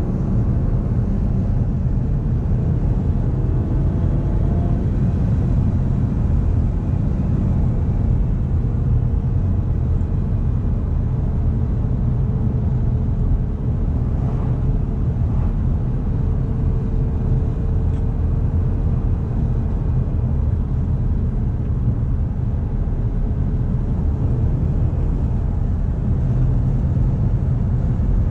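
1998 BMW E36 M3's straight-six engine running under way, a steady low rumble with road noise and only slight rises and falls in pitch.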